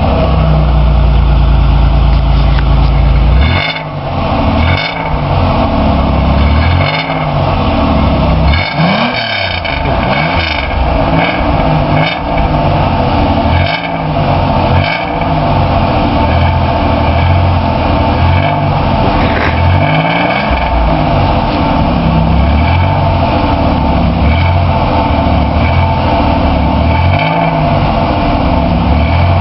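Exhaust of a 1988 Oldsmobile Cutlass Supreme SL engine idling steadily, then revved again and again from about four seconds in, each blip rising and falling in pitch.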